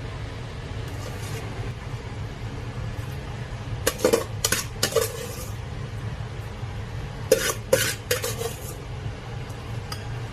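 Kitchen utensil clinking and scraping against a bowl or pot in two short bunches, about four seconds in and again about seven seconds in, over a steady low hum.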